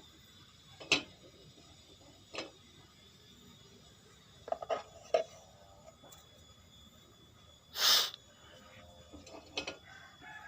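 Scattered clicks and knocks of tools and parts being handled during washing machine repair work, with one louder, brief scraping rasp about eight seconds in.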